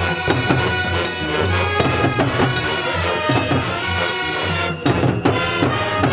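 High school marching band playing: sustained brass and wind chords over busy percussion hits.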